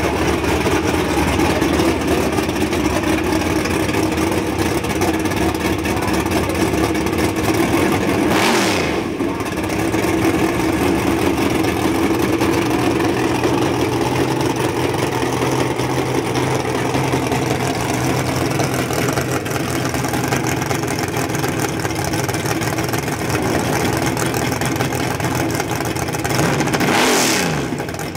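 Ford Mustang drag car's race engine running at a loud, steady idle, blipped up in revs twice: about eight seconds in and again near the end.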